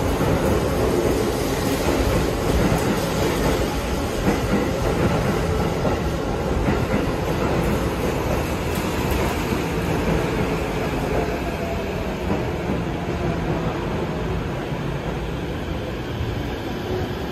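Tokyo Metro Tozai Line electric train pulling in along the platform: a steady rumble of wheels on the rails as it slows, with a faint falling whine in the middle.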